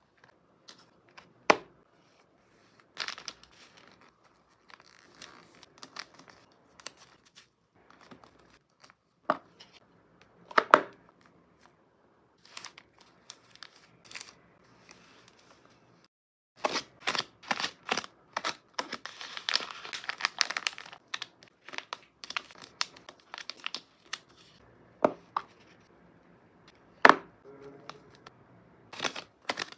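Paper and plastic packing materials being handled: crinkling, tearing and rustling, with scattered sharp taps and clicks. There is a dense run of crinkling about two-thirds of the way through.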